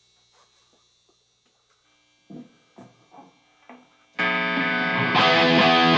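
A faint hum with a few soft, short guitar notes, then about four seconds in a live rock band starts the song loudly, guitar to the fore. About a second later the sound turns fuller and brighter as the rest of the band comes in.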